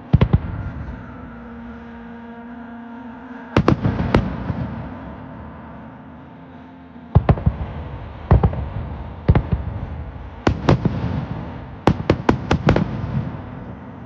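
Aerial firework shells going off in a string of sharp bangs, some single and some in quick clusters, with the last and densest cluster near the end. Each bang trails off in reverberation.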